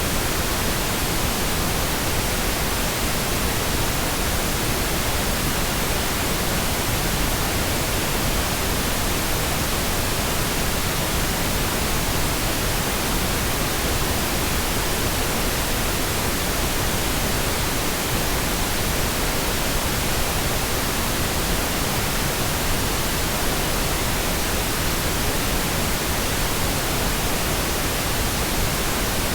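Pink noise: a steady, unchanging hiss spread evenly from the lowest to the highest pitches.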